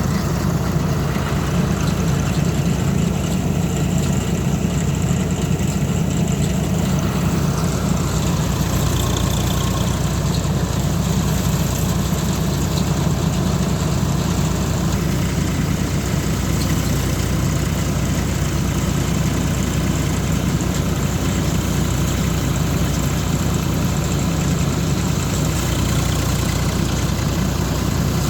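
Swaraj 735 FE tractor's three-cylinder diesel engine running at a steady speed, a constant low drone that does not change.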